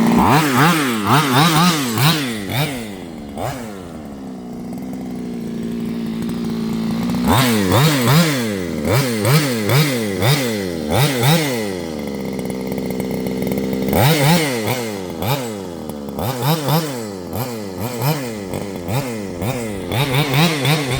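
HPI Baja 5B's 23cc Fuelie two-stroke engine on its stock exhaust, revved in quick repeated throttle blips that rise and fall about once a second. It drops back to a steady idle twice, about four seconds in and again around twelve seconds, then is blipped again.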